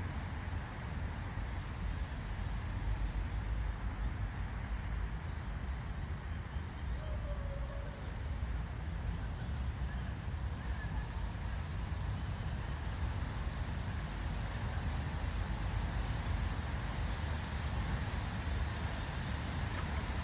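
Steady outdoor background noise: a low rumble under an even hiss, with a faint short call about seven seconds in.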